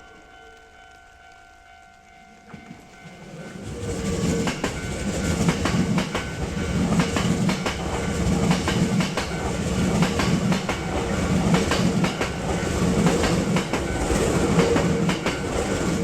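A train passing close by: it comes up about three seconds in and runs on loudly, its wheels clicking over the rail joints in a steady clickety-clack rhythm.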